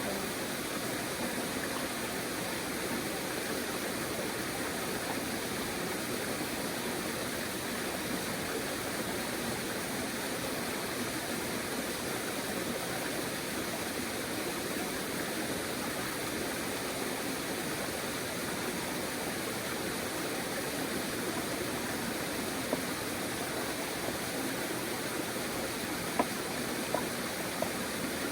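River water rushing steadily, with a few sharp clicks near the end.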